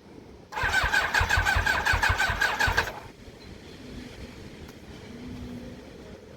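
Electric starter cranking the Yamaha YZF Thunderace's inline-four engine for about two and a half seconds in an even pulsing rhythm, without it firing, then stopping abruptly. The battery is running flat.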